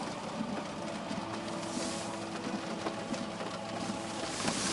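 Jaguar XJ's 3.0-litre twin-turbo V6 diesel idling with the car at a standstill, heard from inside the cabin as a steady hum with a few faint ticks.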